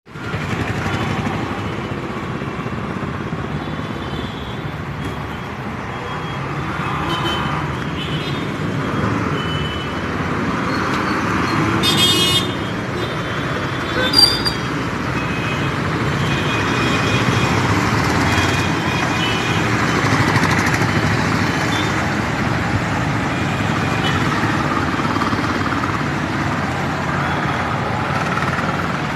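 Steady road traffic noise from passing vehicles, with a car horn sounding briefly about twelve seconds in and another short, sharp sound about two seconds later.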